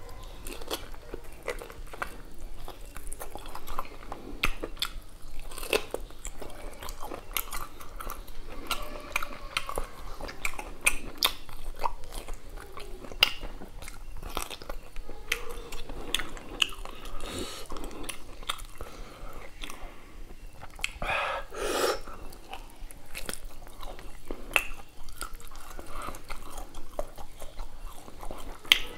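Close-up chewing and biting of beef curry and rice, with frequent small clicks of the mouth throughout. One louder sound lasting about a second comes a little after twenty seconds in.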